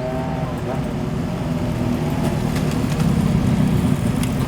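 Motorcycle engines running at low speed as bikes roll in, getting louder about three seconds in.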